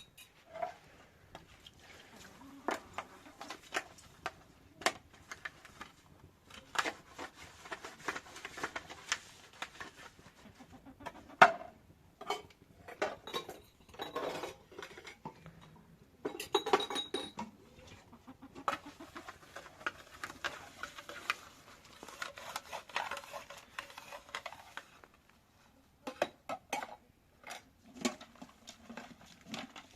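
Scattered clinks, knocks and clatter of pots, dishes and metal utensils being handled, with a few busier bursts of clattering.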